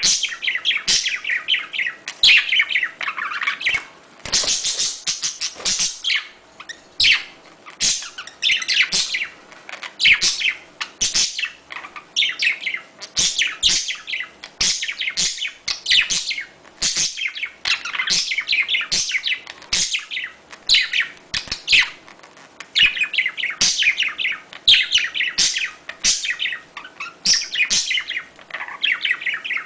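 Several budgerigars chattering and warbling non-stop, a dense run of rapid chirps and trills, the flock chatter played to prompt budgies to breed.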